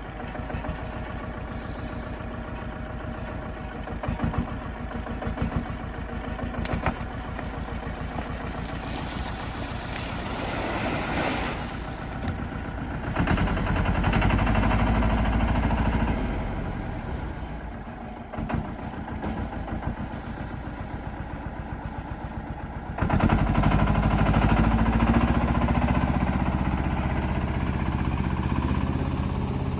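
Diesel engine of a heavy earthmoving machine running and working. It grows louder under load about halfway through and again toward the end, with a few knocks a few seconds in.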